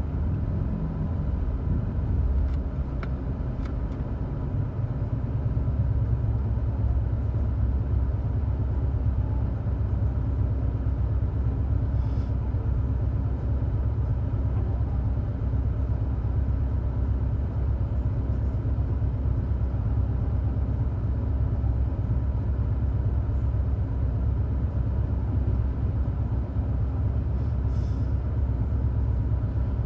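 Steady low rumble inside a car's cabin while the car sits stopped with its engine idling. The rumble grows a little fuller about five seconds in.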